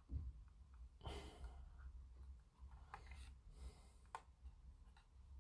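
Near silence with a soft exhale through the nose about a second in, followed by a few faint small clicks as the plastic model parts are handled.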